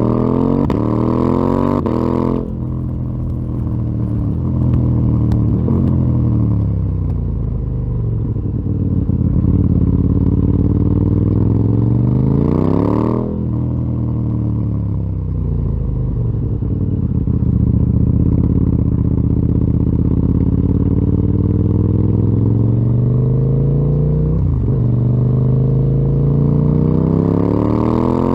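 KTM 890 Duke R's parallel-twin engine through a full Akrapovic exhaust system, ridden on the road. Its revs climb and drop repeatedly, with a sharp cut in the note about two seconds in. A rise to a peak about halfway is followed by a falling pitch, then a steadier stretch and another climb near the end.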